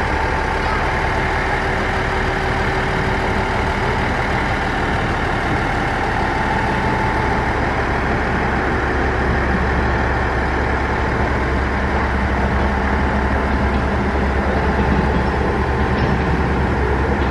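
Diesel railcar's engine idling steadily.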